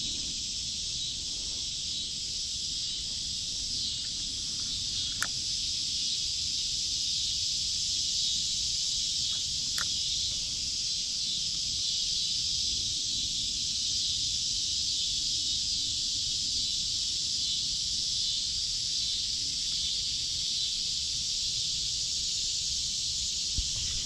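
Insect chorus outdoors: a steady, unbroken high-pitched buzz, over a low rumble of wind or handling, with two faint clicks about five and ten seconds in.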